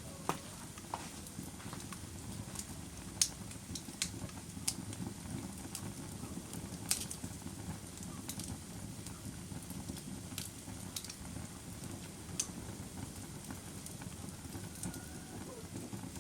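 Campfire burning: a steady low rush from the fire with sharp crackles and pops at irregular moments, the loudest about three seconds in.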